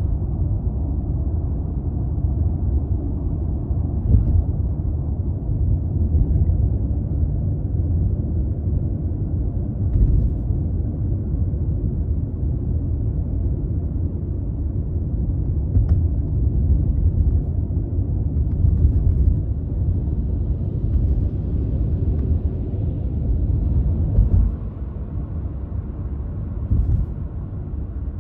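Toyota Crown Athlete (200 series, 2.5 L V6) driving on the road: a steady low rumble of engine and road noise, with a few brief thumps. The rumble eases slightly near the end.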